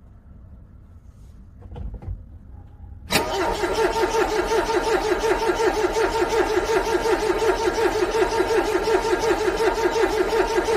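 A car's starter cranking a cold engine in freezing weather, a steady rapid rhythm of about six pulses a second. It begins suddenly about three seconds in, after a couple of faint knocks, and stops abruptly at the end without the engine catching. The engine is struggling to start from the frigid cold.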